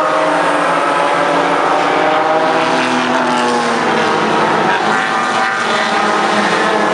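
Several race car engines running hard at once, their pitches sliding up and down as the cars pass and go through the gears.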